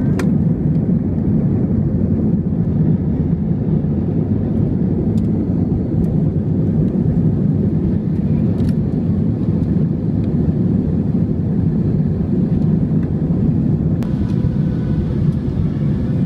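Airliner cabin noise: jet engines and rushing air heard from inside the cabin as a steady, deep rumble during the takeoff climb.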